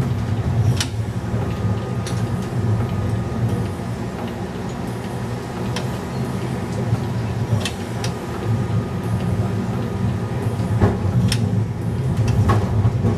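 Replica 1920s-style streetcar running along its track: a steady low rumble, with a few separate sharp clicks at irregular intervals.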